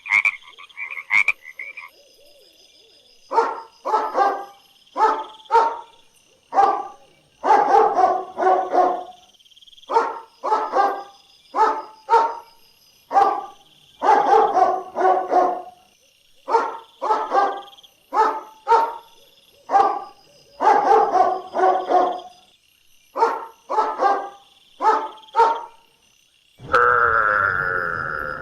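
A dog barking repeatedly in short runs of two to four barks, after a frog croaking in quick pulses for the first two seconds. Near the end a longer, lower call from a different animal begins.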